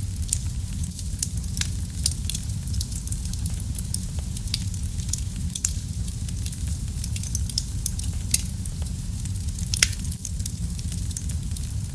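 Fire in a fireplace crackling: a steady low rumble under frequent sharp pops and snaps, with two louder pops about two-thirds of the way through, a second and a half apart.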